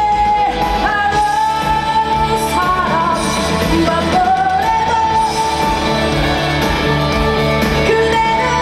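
Female vocalist singing live with instrumental accompaniment, holding long, wavering notes.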